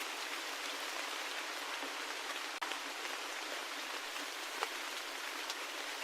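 Steady rain falling, an even hiss with a few single drops ticking out clearly above it, two of them loudest about two and a half and four and a half seconds in.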